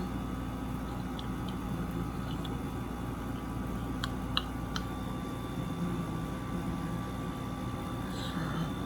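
Window air conditioner running with a steady hum, with three short sharp clicks a little after four seconds in.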